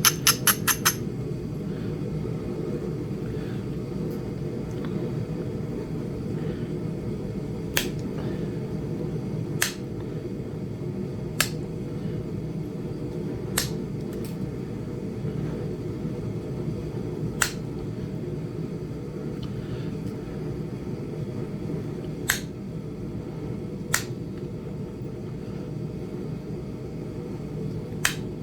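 Sharp clicking strikes of a hammer on a punch set against a small Flint Ridge chert point, flintknapping by indirect percussion: a quick run of light taps at the start, then single strikes every two to four seconds. A steady low hum runs underneath.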